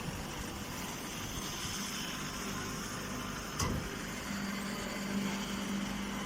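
Square straw baler machinery running: a steady mechanical noise, with a single knock about three and a half seconds in and a steady low hum starting just after.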